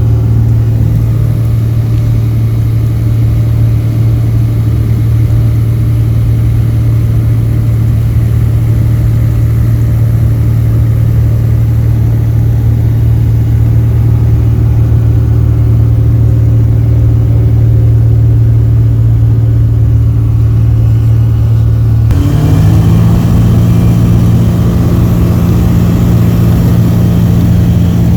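Light aircraft's propeller engine running at a steady low speed, then throttled up about three-quarters of the way through to a higher, steady pitch.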